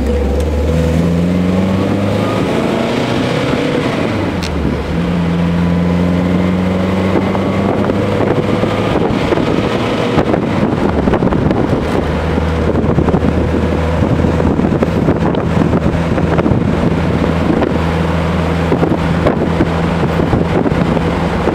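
Alfa Romeo Spider race car's twin-cam four-cylinder engine pulling hard from the passenger seat. Its revs climb and drop back several times in the first few seconds as it shifts up, then run at a steadier pitch, with wind rushing past.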